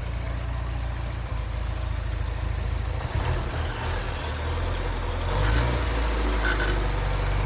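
1988 Porsche 944's four-cylinder engine idling, the idle turning uneven about three seconds in and growing a little louder past the middle.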